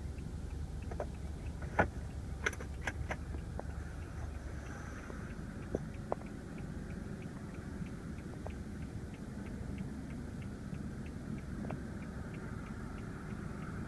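Inside a car cabin: a steady low hum, with a few sharp clicks in the first few seconds and faint, even ticking about twice a second.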